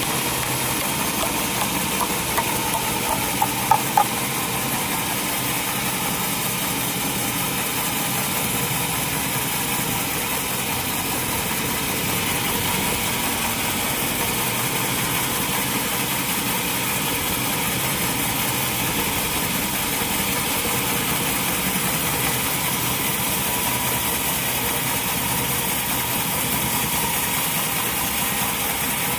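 Sawmill machinery running steadily, with a few short sharp clicks about two to four seconds in.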